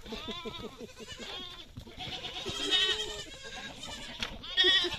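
Several goats and kids bleating over one another, some calls high and wavering, others lower, with the loudest calls near the middle and end.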